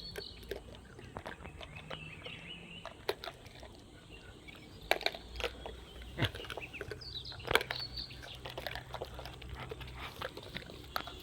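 Outdoor ambience: a few short bird chirps among scattered small clicks, taps and rustles.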